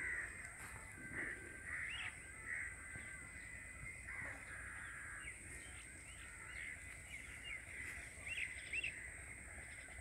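Birds calling in short notes scattered through, over a faint, steady, high-pitched whine.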